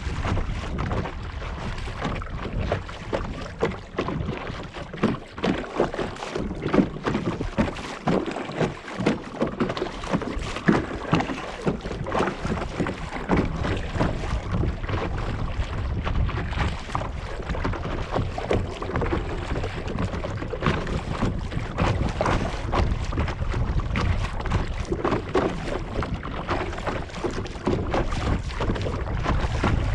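Kayak paddle strokes splashing and dripping water beside the hull, irregular and ongoing, with wind rumbling on the microphone.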